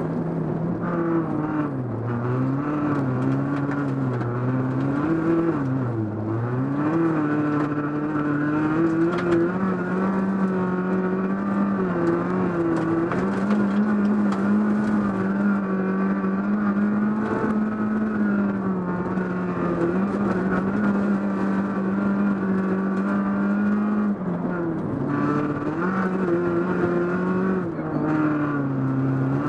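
Renault Clio V1600 rally car's 1.6-litre four-cylinder engine, heard from inside the cabin while driven hard. Revs rise and fall repeatedly in the first few seconds, then stay high and fairly steady, with two brief drops near the end.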